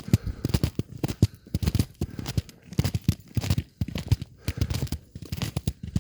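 Footsteps crunching over ice-glazed ground and frozen debris, an irregular run of crackling crunches.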